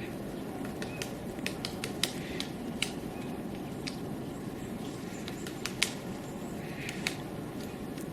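Woodpecker pecking at wood: single sharp knocks at irregular intervals, not a drumming roll, with the loudest about two, three and six seconds in. Under them runs a steady background hiss.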